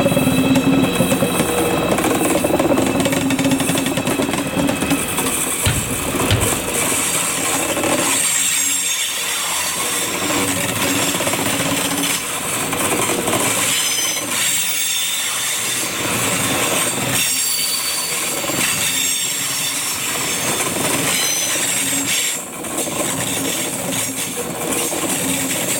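Train running along the track: steady rolling noise of wheels on rail, with a humming tone for the first several seconds, then a rise and fall recurring every couple of seconds.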